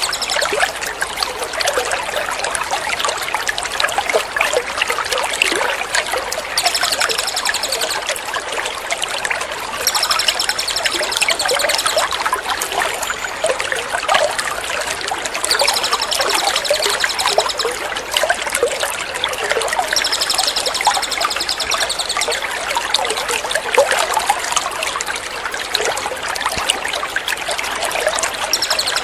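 Steady trickling, running water with a small songbird's high call repeating in bouts of about two seconds, every few seconds. It is a looped bird-tutor (masteran) mix of birdsong over a water-therapy sound.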